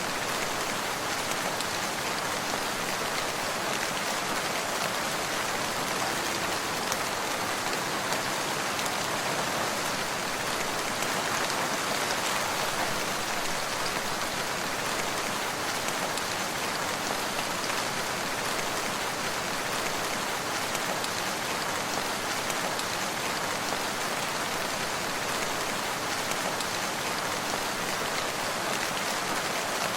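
Steady rain falling and pattering on surfaces, an even, constant hiss of drops.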